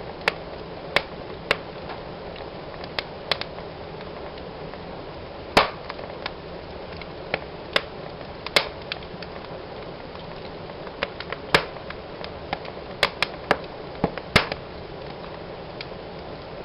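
Wood fire in a fireplace crackling, with irregular sharp pops over a steady hiss; the loudest pops come about a third of the way in and near the end.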